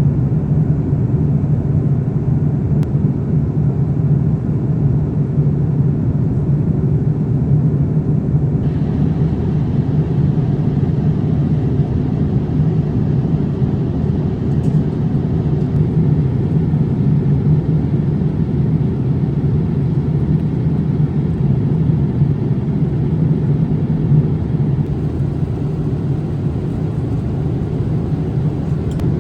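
Steady low rumble inside the passenger cabin of a Boeing 787-8 airliner: the even noise of airflow and engines, unchanging throughout.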